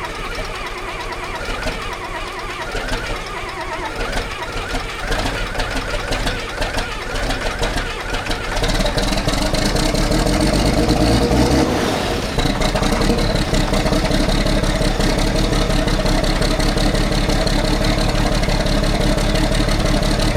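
John Deere tractor engine running. About eight seconds in it grows louder and fuller as it is throttled up, with a brief dip and a rising pitch near the middle, then runs steady at the higher speed.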